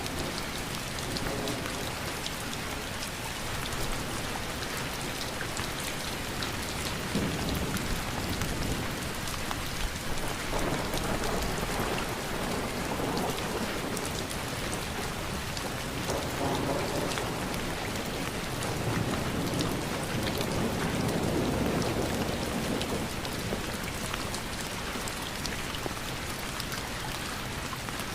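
Steady rain falling, with a dense patter of drops hitting surfaces; the sound swells louder and fuller in a few stretches through the middle.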